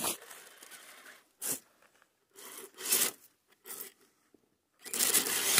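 Several short bursts of crunching and scraping, the loudest near the end: an RC rock crawler's tyres churning snow and its body rubbing as it tries to climb out of a spot with too little clearance.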